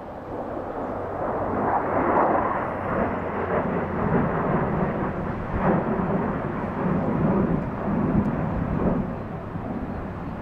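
Jet noise of U.S. Air Force Thunderbirds F-16 fighters in a flyby, swelling over the first two seconds, staying loud for several seconds and easing off near the end.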